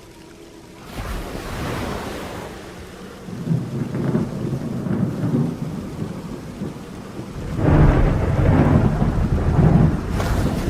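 Rain falling steadily with rolling thunder: a low rumble about a third of the way in and a louder, longer one near the end.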